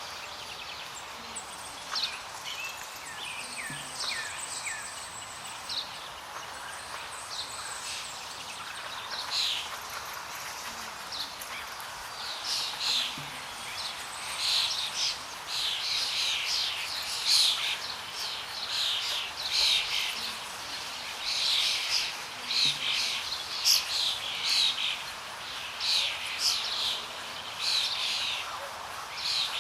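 Many small birds chirping and calling in quick, overlapping phrases, busier and louder in the second half, over a steady background hiss.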